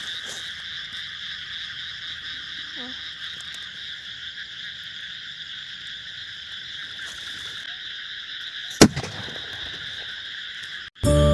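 A steady, high-pitched chorus of calling animals from the field, with one sharp loud crack about nine seconds in.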